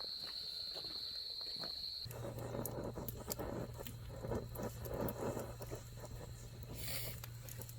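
Insects chirring in one steady high note; about two seconds in the sound changes, a low hum comes in and irregular crunching footsteps take over, with the insects still faintly behind.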